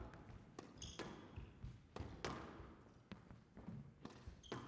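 Squash rally: the ball is struck by rackets and hits the walls in sharp cracks about once a second, the loudest a little over two seconds in, with brief high squeaks of shoes on the court floor.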